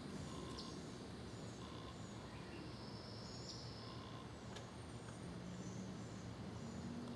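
Faint steady background hiss with scattered short bird chirps and calls, and a soft click about four and a half seconds in.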